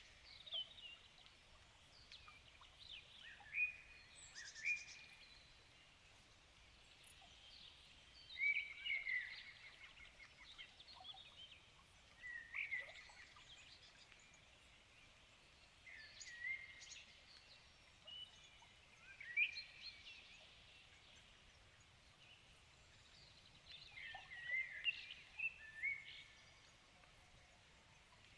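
Songbirds singing in the evening: short phrases of quick whistled notes and trills, repeated every few seconds with pauses between them.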